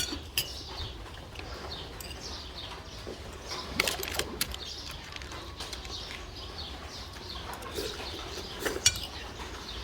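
Small birds chirping, many short falling notes repeated throughout, with a few sharp clicks in between.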